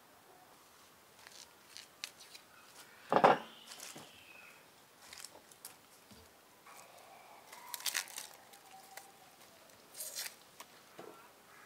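Scattered light clicks and snips of small objects being handled, with a sharp snap about three seconds in and more near eight and ten seconds in.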